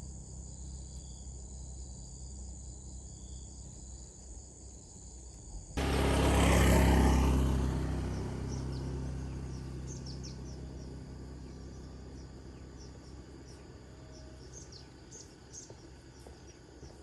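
Crickets trilling steadily in high, even tones. About six seconds in, this gives way abruptly to a loud rushing noise, heavy in the low end, that fades slowly over the next ten seconds, with short high chirps over it.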